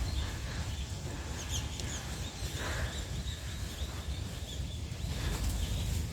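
Strong wind rumbling on the microphone, with faint high bird chirps in the first half.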